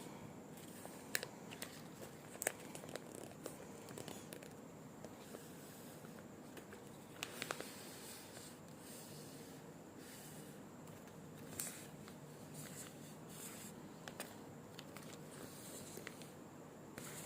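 Rolls of decorative tape and their packaging being handled: soft crinkling and rustling, broken by a few sharp clicks and taps, the loudest about a second in, two and a half seconds in and in a quick cluster near the middle.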